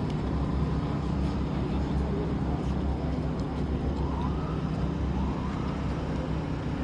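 A car engine idling steadily with a constant low hum.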